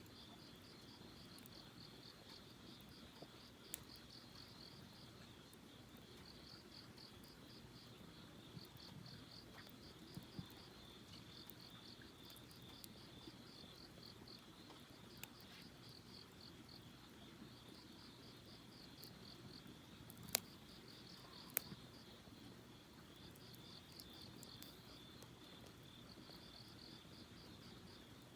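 Crickets chirping steadily in rapid pulsed trills, with a few sharp pops from a campfire, the two loudest close together about two-thirds of the way through.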